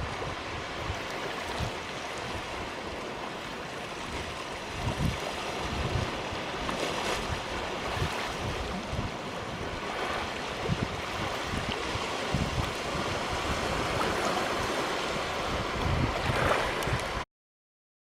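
Waves washing onto a sandy beach, with wind buffeting the microphone in irregular low rumbles; the sound cuts off suddenly near the end.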